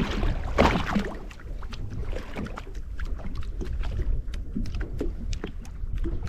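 Boat drifting on the water: a steady low rumble with a scatter of small clicks and taps, and a louder rush of noise about half a second in.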